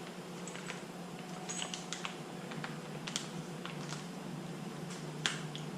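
Scattered light clicks and taps as small parts and packaging of an oil pan kit are handled, over a steady low hum.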